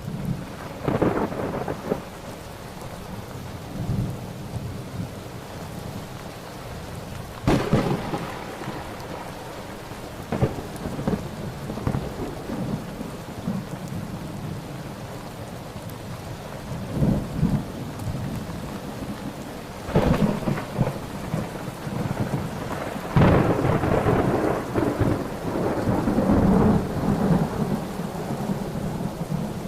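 Thunderstorm: steady rain with repeated claps of thunder. There are sharp cracks about a second in, near 7.5 s and around 20 and 23 s, and a long rolling rumble late on.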